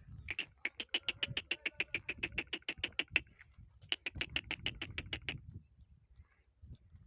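Donkey braying: a rapid, rasping pulsed call of about eight to nine pulses a second, in two bouts with a short break between them.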